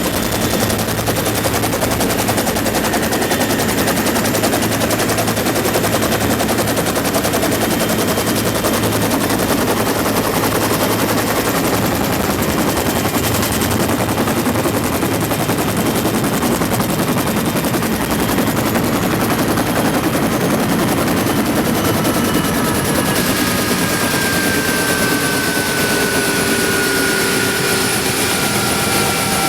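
Bell UH-1 Huey helicopter in flight: a steady, rapid beat of the rotor blades with the turbine's whine, heard from aboard. A slowly falling whine comes in over the last several seconds.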